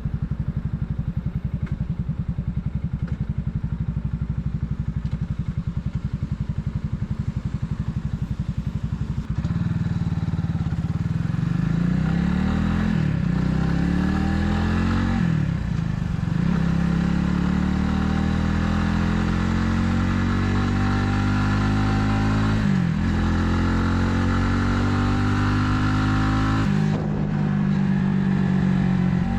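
Italika 250Z motorcycle engine running steadily at low revs for about nine seconds, then pulling away and climbing in pitch through the gears, the revs dropping briefly at each of four gear changes.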